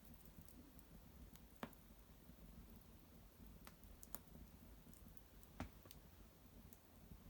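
Small fire of dried maple twigs crackling faintly, with a few scattered sharp snaps; the two loudest come about a second and a half in and a little over five and a half seconds in.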